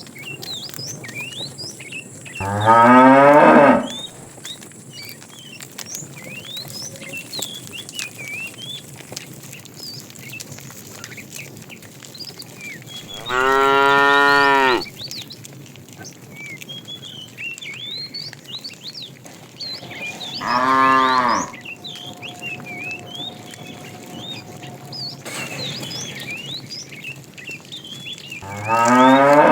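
Cattle mooing: four separate moos spread several seconds apart, each about a second long, the first rising in pitch.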